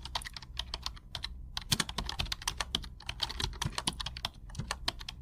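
Rapid, irregular clicking like typing on a computer keyboard, many keystrokes a second, over a faint low hum.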